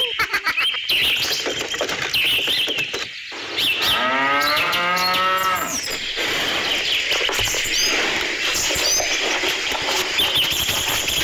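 A cow mooing once, a single long low call of about two seconds starting a little under four seconds in.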